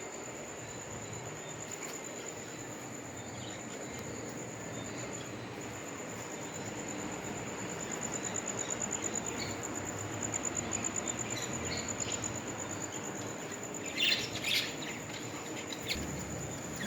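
Parrots chirping in short, scattered calls, with a louder burst of chirps near the end. Under them runs a steady, fast-pulsing high trill like a cricket, over a constant background hiss.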